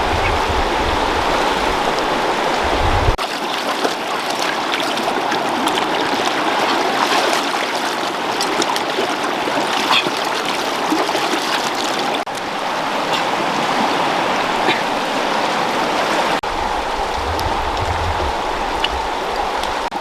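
Steady rushing of running water, such as a stream, with the sound changing abruptly a few times and a low rumble in places.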